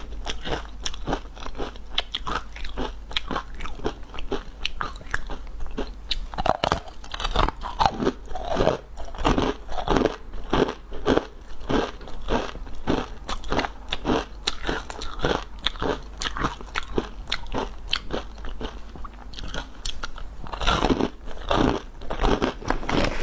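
Crunching and chewing of a crispy puffed-corn crisp bar, bite after bite in a steady run of crunches about two a second.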